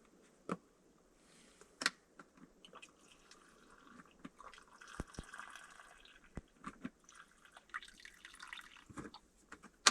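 Faint, irregular ticks and small knocks, a few of them sharper and louder, over a soft hiss.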